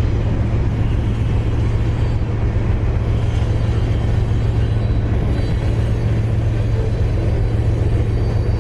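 Freight train's diesel locomotives running, a steady low rumble with a constant deep engine hum.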